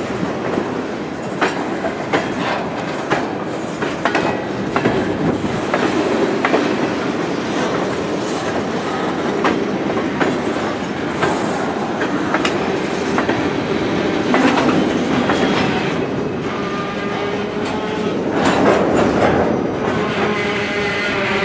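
A train rolling past, its wheels clicking over rail joints over a steady rumble. A pitched drone comes in near the end.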